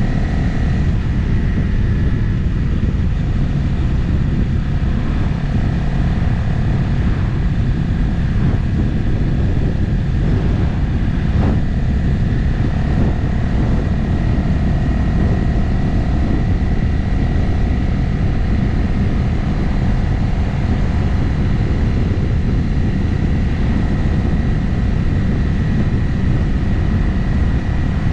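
Motorcycle cruising at a steady speed: the engine runs evenly under a dense, low rush of wind on the action-camera microphone, with a faint steady whine above it. About eleven seconds in there is a brief sharp tick.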